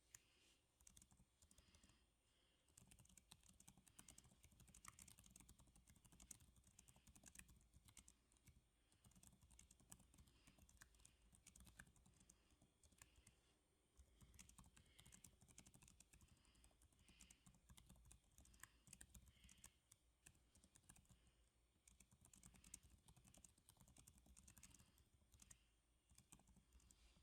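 Faint, rapid typing on a computer keyboard: a dense run of key clicks, sparser in the first few seconds and pausing briefly around the middle.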